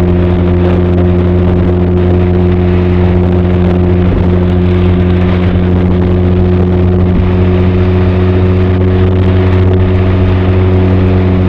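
Benelli TRK 502's parallel-twin engine and exhaust holding a steady note while cruising at constant speed, with no rise or fall in revs.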